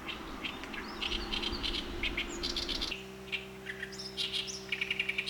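Small birds chirping and twittering repeatedly in quick short calls. Under them runs a low rumble that changes about three seconds in to a steady low hum.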